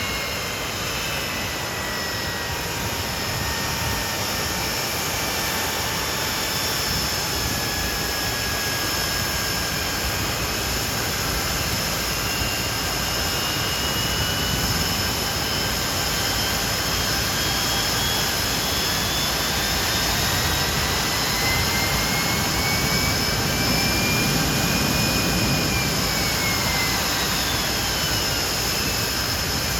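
Nimrod's Rolls-Royce Spey turbofan engines running with a steady roar. Several whining tones glide slowly in pitch over it: one climbs through the middle and falls away again near the end, as the roar swells slightly.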